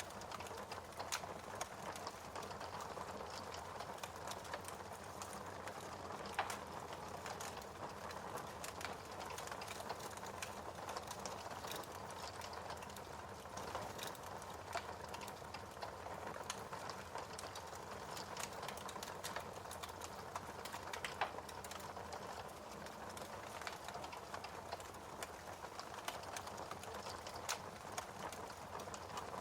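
Wood fire crackling, with scattered irregular pops and snaps over a soft steady hiss.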